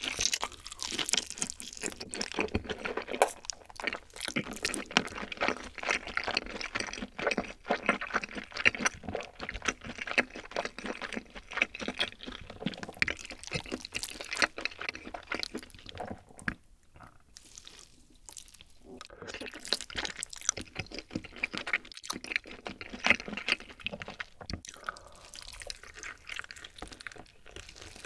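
Close-miked chewing of a grilled, sauced whole chicken leg with melted cheese: dense wet, sticky mouth sounds with crunchy bites. There is a quieter lull about two-thirds of the way through.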